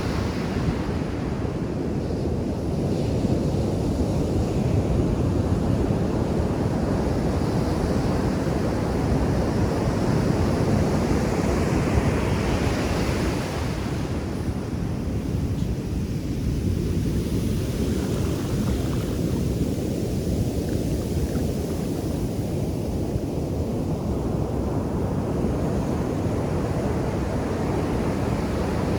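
Ocean surf breaking and washing on a sandy beach: a steady rush of waves that swells and eases every few seconds, with some wind on the microphone.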